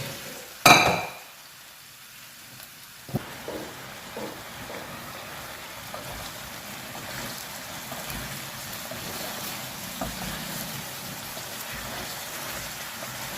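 Mutton pieces and their cooking water sizzling in a pan over a masala of fried onion and ginger-garlic paste. A ringing metal clank comes about a second in, and a knock about three seconds in.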